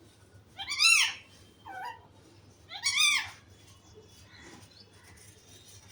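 Pet parrot vocalizing: two loud calls that rise and fall in pitch, about two seconds apart, with a shorter, softer call between them.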